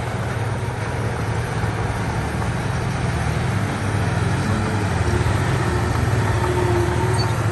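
Diesel engine of heavy earthmoving equipment running steadily, a little louder from about halfway through.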